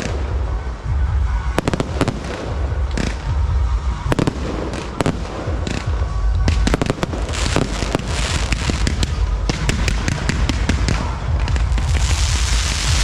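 Fireworks going off in a dense, irregular string of sharp cracks and bangs over a deep rumble, with music underneath. About a second before the end a steady hiss sets in.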